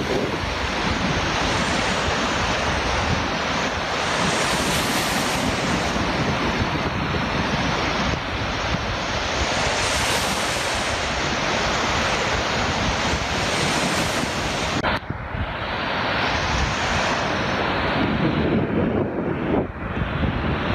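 Black Sea surf breaking on a winter beach, surging every few seconds, with strong wind buffeting the microphone.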